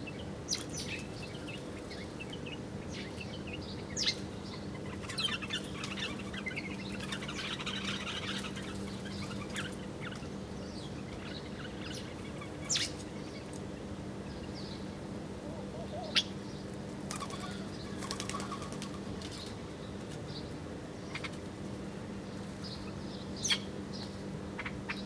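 Small birds chirping and twittering, with a handful of sharp, brief flutters of wingbeats as birds fly in and out. A steady low hum runs underneath.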